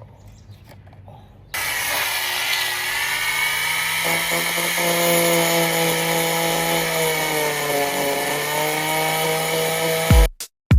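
Handheld electric power tool working on the car's sheet-metal quarter panel, switching on abruptly about a second and a half in and running steadily with a hissing, whining tone whose pitch sags and recovers as it is pressed into the metal. Music with a drum-machine beat cuts in near the end.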